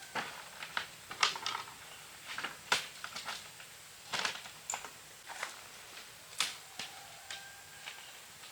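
Irregular light clicks and knocks, about a dozen spread unevenly over several seconds, as from hands working with small hard objects.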